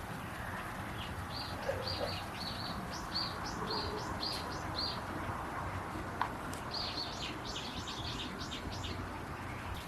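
Small songbird chirping: a run of short high chirps, a pause of about a second and a half, then a second, quicker run.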